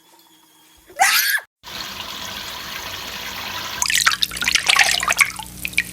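A brief shrill call with a falling pitch about a second in, then a cut to steady running water from a tap. From about four seconds there is irregular splashing in the water with short high chirps over it.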